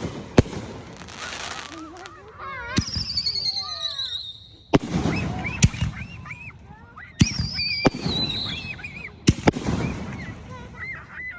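Backyard consumer fireworks going off: a series of sharp bangs every second or two, with two high whistles that fall in pitch, one about three seconds in and one about seven seconds in. People's voices can be heard between the bangs.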